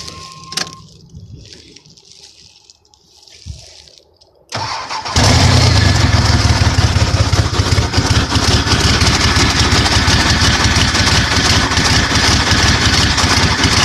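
A Dodge Dakota's 3.9-litre V6 turns over briefly about four and a half seconds in, then catches and runs steadily and loud with its exhaust not yet reconnected. It is the first start after the broken camshaft gear was fixed and the distributor turns again to give spark.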